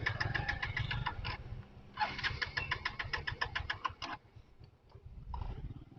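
A motorcycle's starter cranking the engine in two bursts, a rapid even chugging over a low rumble, without the engine catching. The bike has just stalled, which the rider suspects is from running out of fuel.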